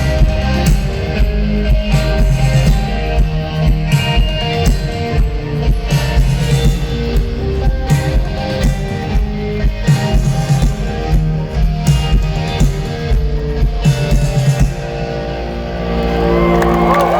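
Live rock band playing an instrumental passage: electric guitars over a steady drum beat, with gliding guitar tones near the end.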